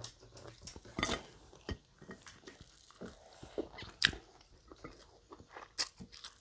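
People chewing and biting food, with irregular sharp clicks and smacks of eating. The loudest click comes about four seconds in.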